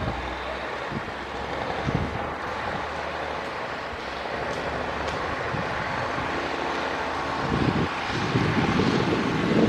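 Heavy earthmoving machinery running steadily, with a few short knocks and clanks; it grows louder near the end.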